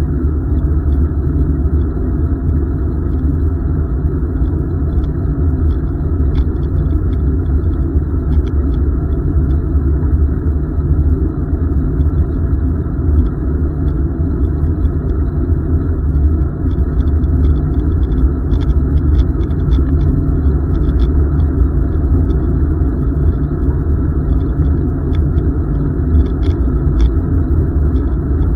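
Loud, steady low rumble of wind buffeting the microphone and tyre noise from a bicycle being ridden, with faint scattered high ticks.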